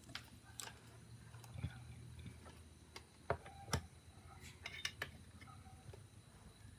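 Scattered small clicks and taps from hands and tools working on a mobile phone, with two sharper taps in the middle. A low hum runs under the first couple of seconds.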